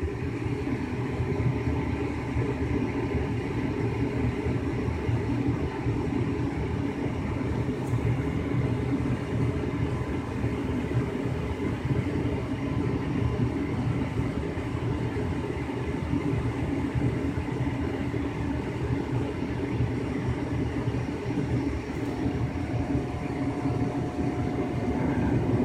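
2005 Lennox Elite Series 90,000 BTU gas furnace running in heating mode, with the gas burners lit and the draft inducer and blower going. It makes a steady, low rumbling whoosh.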